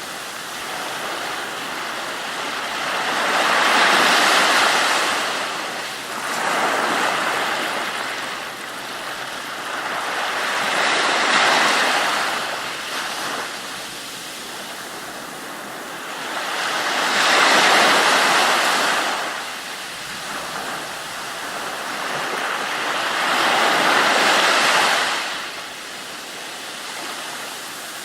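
Ocean surf: rushing water that swells and fades four times, roughly every six to seven seconds, as waves break and wash back.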